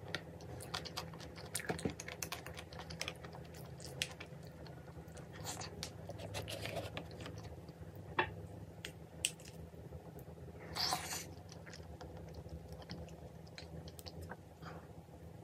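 A person eating close to the microphone: chewing and biting food, with crunches and scattered sharp clicks. A stronger click comes about 8 seconds in, and a short rushing sound follows about 11 seconds in.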